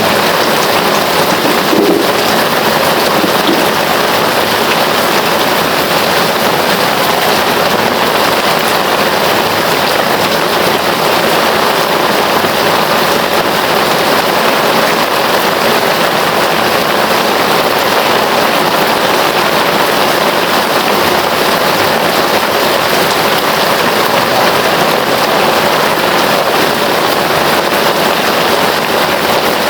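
Heavy rain falling steadily: a dense, even hiss of countless drops that holds at a constant level.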